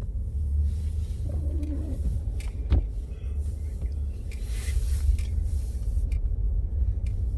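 Low, steady rumble inside the cab of a four-wheel-drive Ford F-150 pickup driving through deep snow, with a sharp knock about three seconds in.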